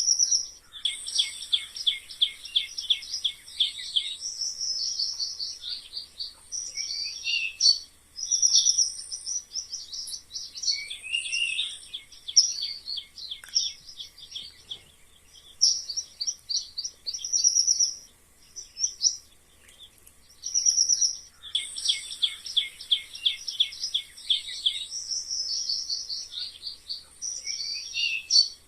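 Mice squeaking: a near-continuous run of high-pitched, rapid chirping trills with a few short pauses.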